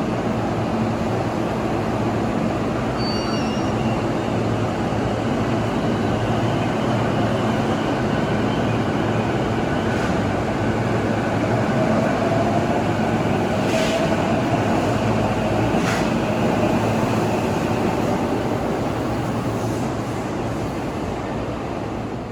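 Electric commuter train running on the rails: a steady loud rumble of wheels and running gear, with a faint motor whine rising slowly in pitch midway and a few sharp clicks.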